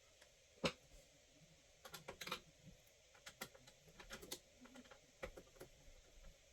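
Irregular light clicks and taps, with one sharper click just under a second in and scattered clusters of quicker clicks after it.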